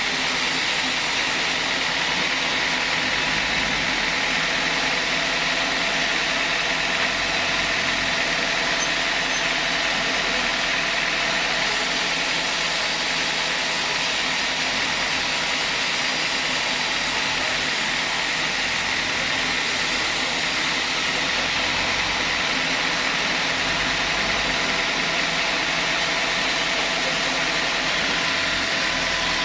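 Sawmill machinery running steadily: a continuous mechanical noise with a few steady high tones and no let-up.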